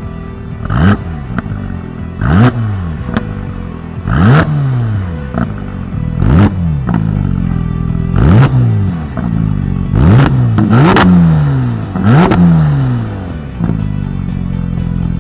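Porsche 992.2 GT3 Touring's naturally aspirated 4.0-litre flat-six through an Akrapovič titanium slip-on exhaust, idling and blipped in a series of sharp free revs, each climbing fast and dropping back to idle. There are about eight blips roughly every two seconds, two close together near the end, then a steady idle.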